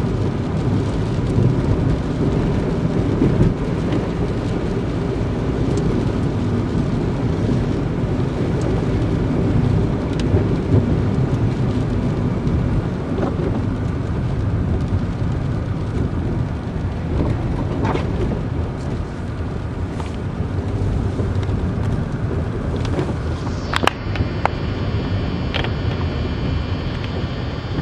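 Steady low rumble of a car being driven, road and engine noise from inside the vehicle, with a few short clicks and knocks.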